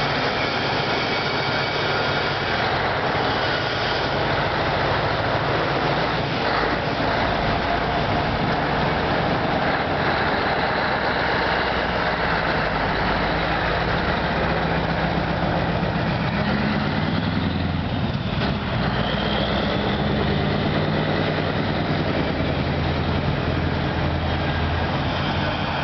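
Scania 143 420 truck's V8 diesel engine running steadily, its pitch shifting up and down for a few seconds a little past the middle.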